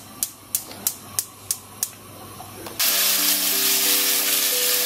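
A gas hob's spark igniter clicking about three times a second, then a loud sizzle as chicken strips fry in hot olive oil in a frying pan, starting suddenly about three seconds in. Background music notes sound over the sizzle.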